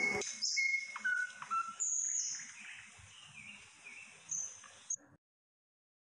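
Birds chirping and calling in short whistled notes at several pitches, growing fainter and then cutting off abruptly about five seconds in.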